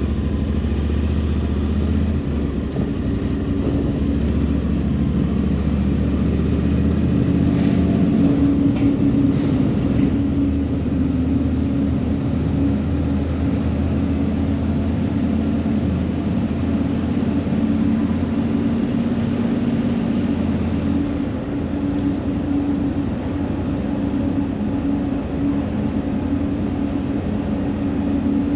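A steady engine drone with a low, even hum throughout, and two faint clicks around eight and ten seconds in.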